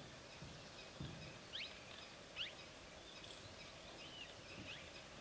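Quiet forest ambience with faint bird calls: two short rising chirps about a second and a half and two and a half seconds in, then a few softer twitters.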